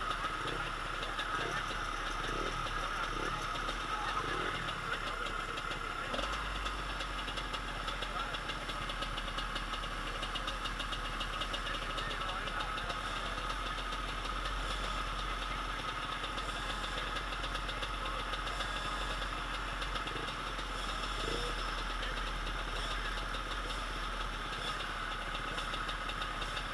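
Motocross motorcycle engines running at high revs, a steady drone.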